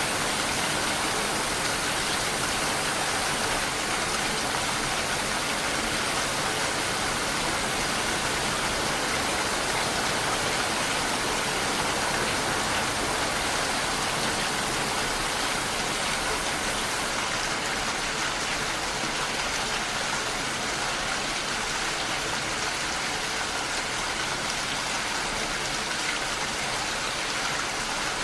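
Steady, heavy rain falling, a dense even hiss with no distinct drops standing out.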